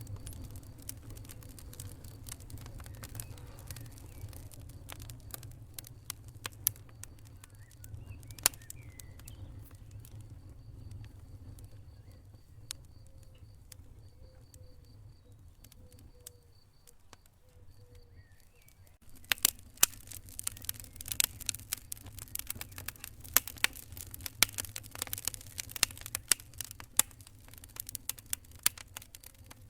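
Wood fire crackling, with scattered sharp pops and clicks over a low steady rumble. The crackling thins out for a while, then comes back thick and loud about two-thirds of the way through.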